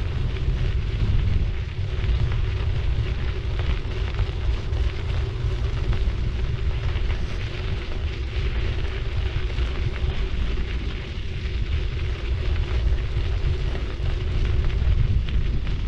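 Wind buffeting the microphone of a bike-mounted action camera as a city bike rides along, a loud, fluctuating low rumble over the steady rolling noise of its tyres on the road.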